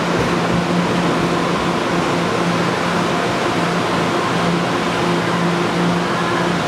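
TEMU1000 Taroko Express electric tilting train running steadily past a platform: a continuous rumble of wheels and running gear with steady humming tones from its drive.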